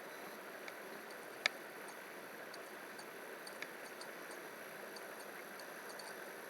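Steady background hiss with a few faint sharp clicks, the clearest about a second and a half in, typical of a computer mouse being clicked.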